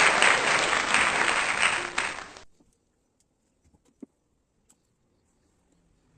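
Applause from a crowd, dense and even, fading out and cutting off about two seconds in. After that there is near silence with a few faint ticks.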